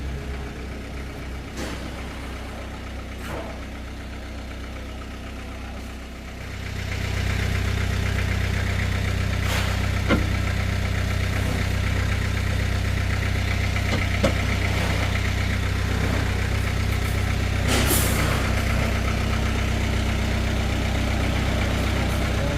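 A vehicle engine idling steadily. About six to seven seconds in it gets louder and then runs on at that level, with a few short metallic clicks and knocks now and then.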